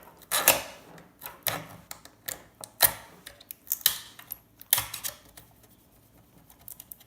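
Irregular sharp clicks and snaps of small electronic components being pried or clipped off a scrap circuit board with a hand tool, busier in the first few seconds and sparser later.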